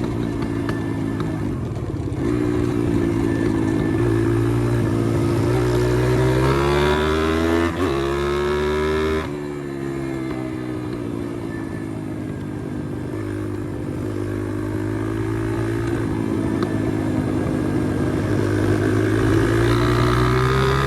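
Pit bike engine running under way, revving up over several seconds with a brief dip partway, then dropping off suddenly. It holds lower before building up again near the end.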